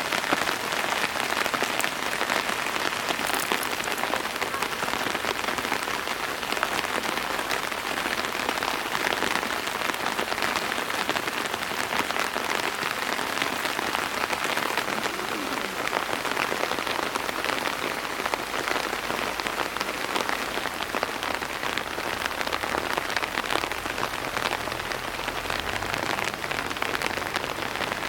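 Steady rain falling, a dense even hiss of many separate drop hits that holds at one level throughout.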